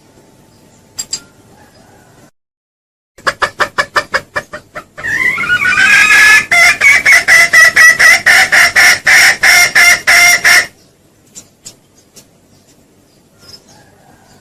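Junglefowl lure call: after a quiet start, a run of quick clucks at about six a second, then a loud call of rapid pulses at about three or four a second for some five seconds, which cuts off suddenly. A few faint calls follow in the quiet near the end.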